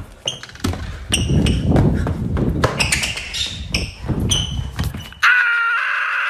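A quick run of knocks and taps over a low rumble, with short high squeaks between them. About five seconds in, it gives way suddenly to a steady high tone.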